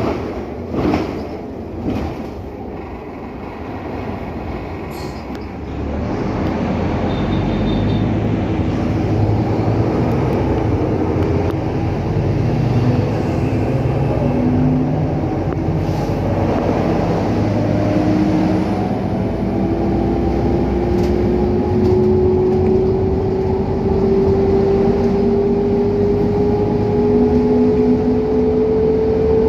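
Scania K310UA articulated city bus under way, heard from inside: the drivetrain runs with a steady low rumble after a couple of knocks near the start, growing louder about six seconds in. In the second half a whine climbs steadily in pitch as the bus gathers speed.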